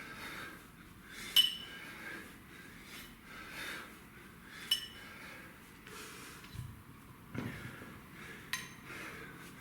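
Hand-to-hand kettlebell swings: a person breathing hard with each rep, with a sharp metallic clink from the kettlebell every few seconds and a couple of dull thuds near the end.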